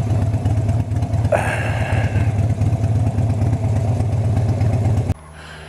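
Harley-Davidson Sportster V-twin engine running steadily at low revs, a loud low rumble heard from on the bike. The rumble cuts off suddenly about five seconds in.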